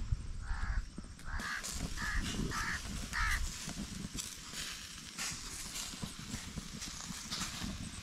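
A bird calls about five times in quick succession in the first few seconds. From about a second and a half in, seekh kababs on skewers sizzle over glowing charcoal, a steady hiss with light crackles.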